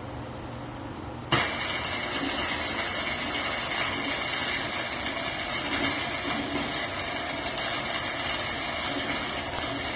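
An engine starts abruptly about a second in and then runs steadily.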